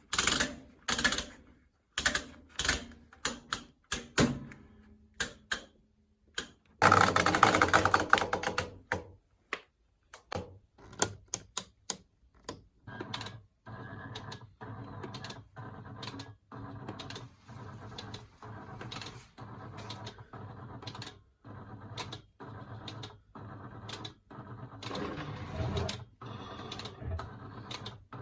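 Program selector dial of an old washing machine being turned, clicking from notch to notch. About seven seconds in there is a louder rattling burst lasting about two seconds. From about thirteen seconds the clicks come regularly, roughly one a second, over a fainter steady sound.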